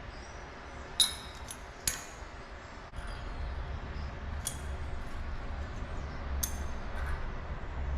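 Pieces of steel clinking sharply against each other as they are handled and stacked into a billet of sickle sections and mild steel strips. Two loud clinks come about one and two seconds in, with lighter ones later. A low hum comes in about three seconds in.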